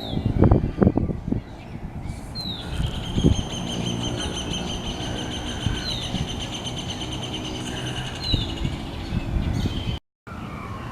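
Birds calling: short falling chirps every few seconds over a long, steady trill that runs for about seven seconds. Low rumbling noise lies underneath and is heaviest in the first second or so.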